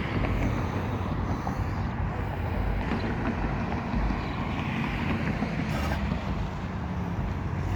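A car engine running steadily at low revs as the car is driven off slowly.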